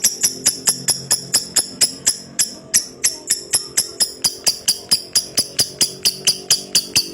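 Lovebird in long 'ngekek' chatter: an unbroken series of sharp, high-pitched notes at a steady pace of about four to five a second.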